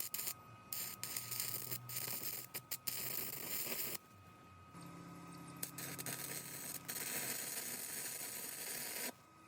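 Stick welding arc from a small IGBT inverter welder, crackling and hissing in two runs of about three and four seconds, each starting and stopping abruptly, over a faint steady high whine.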